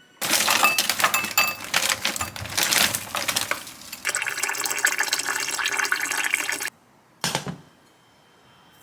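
Water running from a kitchen tap and splashing, steadier for the last couple of seconds before it is shut off abruptly. A brief splash follows soon after.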